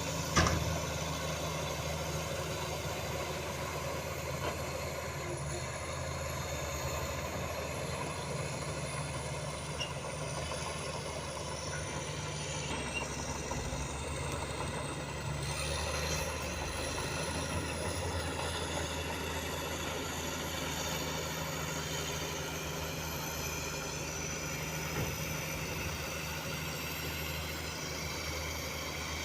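Heavy diesel dump truck engine running steadily, with a single sudden sharp sound about half a second in.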